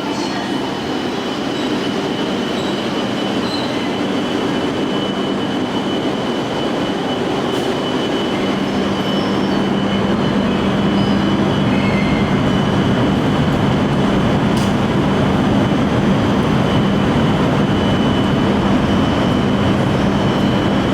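Shinkansen train noise in a station: a steady running noise that grows gradually louder, with a steady low hum coming in about eight seconds in and a thin high tone throughout.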